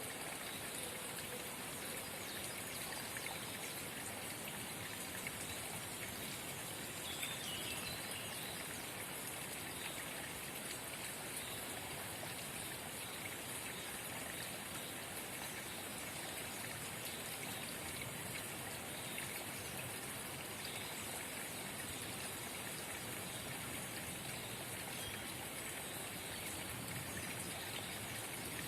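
Forest spring babbling: a steady, unbroken trickle of running water.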